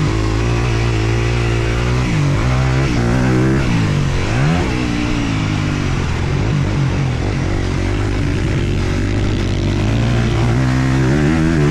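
Four-stroke motocross bike engines running hard, their pitch climbing and dropping as the throttle is worked through the track sections.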